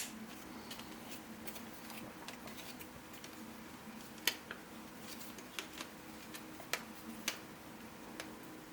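Scattered sharp clicks and taps of 3D-printed plastic puzzle pieces being handled and pushed together, over a faint steady hum.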